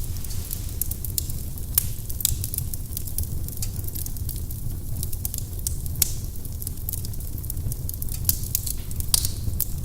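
Firewood burning in a fireplace: irregular sharp crackles and pops over a steady low rumble of the flames, with louder snaps about six and nine seconds in.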